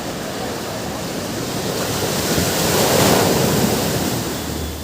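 Ocean surf on a beach: a steady wash of waves, with one wave swelling up and breaking about three seconds in, then washing back and fading.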